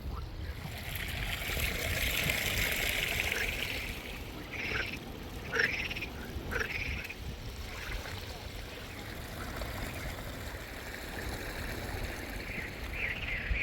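Several short animal calls, bunched about halfway through, over a steady hiss and a low rumble.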